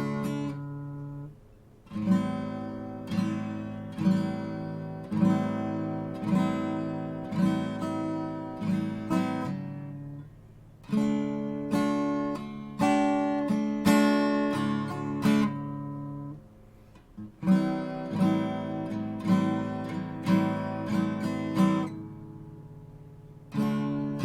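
Art & Lutherie Wild Cherry acoustic guitar strummed in slow chords, each struck about once a second and left to ring, in phrases with a few short breaks where the chords die away.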